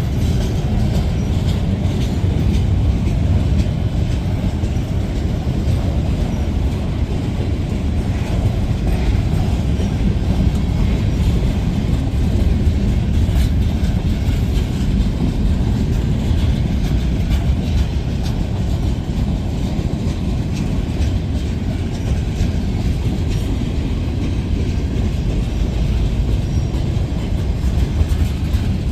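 A train rolling past: a loud, steady rumble of wheels on the rails with light clicking throughout.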